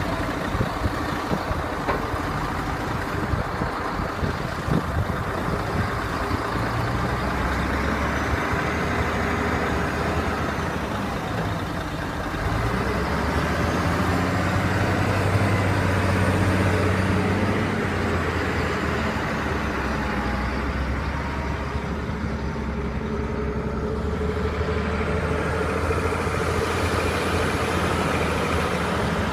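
Mercedes-Benz dump truck's diesel engine running steadily under work. It grows louder about twelve seconds in, and a faint high whine rises and falls several times over it.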